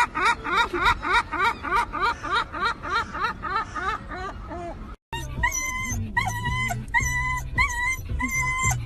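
A dog yipping in quick short rising yelps, about four a second. After a cut about five seconds in comes a slower series of short whining calls.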